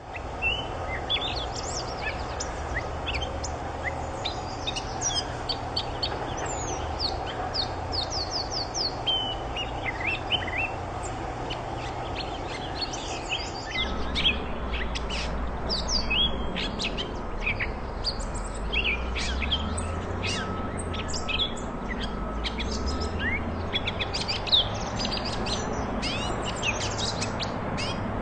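A catbird singing a long, rambling run of quick, varied chirps, squeaks and short whistles with hardly a pause, over a steady low background noise.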